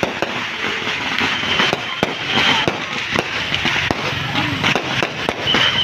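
Fireworks going off: a dense run of sharp cracks and pops, one after another, with a brief high steady tone sounding twice.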